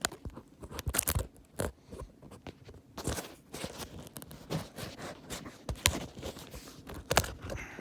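Irregular crunches, scrapes and sharp knocks close to the microphone, with no steady rhythm.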